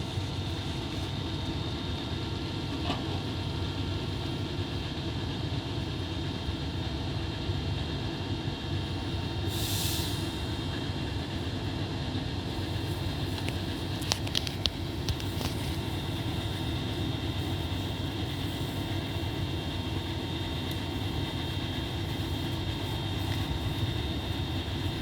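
Steady machinery rumble with a constant hum, a brief hiss about ten seconds in and a few sharp clicks around fourteen seconds.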